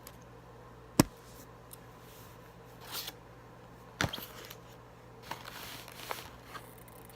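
Handling noises as things are moved on a table: a sharp click about a second in, a short rustle, then a knock and a few light ticks, over a faint steady low hum.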